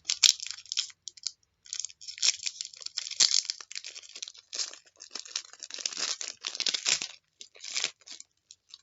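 A foil trading-card pack being torn open and its wrapper crinkled: a run of irregular, crackly rustles that thin out near the end.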